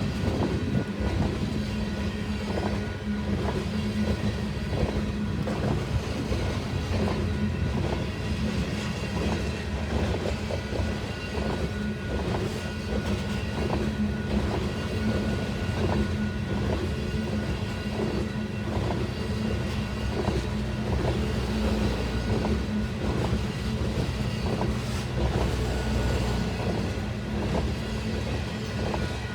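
A train rolling past with a steady low rumble, its wheels clicking rhythmically over the rail joints.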